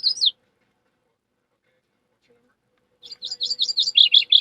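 Birdlike song: a brief phrase of high chirps at the start, then after a pause a fast series of repeated chirps that drops into a louder, lower trill near the end.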